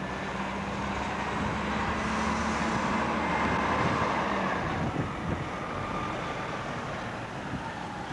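Propeller airplane engine droning as the plane passes overhead, growing louder towards the middle and then fading.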